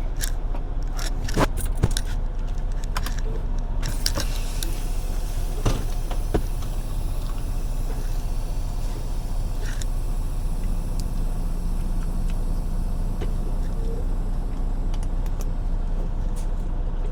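Semi-truck diesel engine running, heard from inside the cab, with several sharp clicks and rattles in the first few seconds; about ten seconds in a steadier, deeper engine note comes in.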